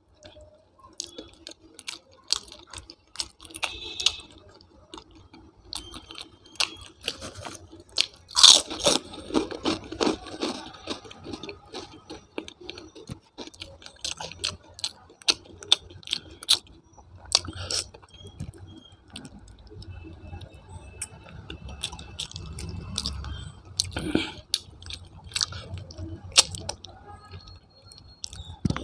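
Close-miked eating: a person chewing Indian food with irregular crunches and mouth clicks. The loudest crunch comes about eight seconds in.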